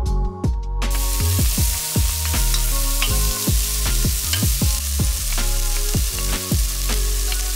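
Diced onion sizzling in hot olive oil in a pot, the sizzle starting suddenly about a second in. Background music with a deep bass beat plays along.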